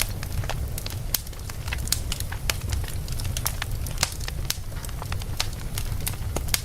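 Wood fire of burning logs in a fireplace crackling, with sharp irregular pops and snaps several times a second over a steady low rumble of the flames.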